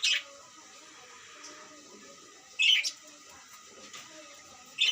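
Birds chirping: three short, loud, high-pitched calls, one right at the start, one a little before the middle, and one at the very end, over a faint low background murmur.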